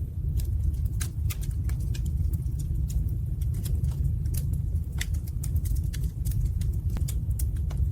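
Wood fire burning in a fireplace: frequent sharp crackles and pops at irregular intervals over a steady low rumble.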